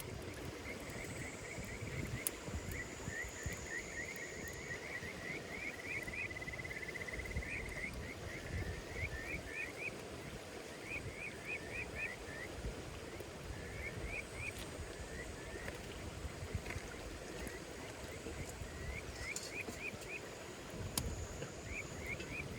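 Campfire crackling, with scattered sharp pops over a steady low rustle. Insects are chirping over it in quick groups of three to five short rising chirps, with a fainter high, steady buzz now and then.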